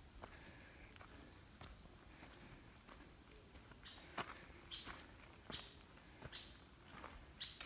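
A steady, high-pitched chorus of insects, with a walker's footsteps on a forest path landing irregularly across it. A few short high chirps come in over the second half.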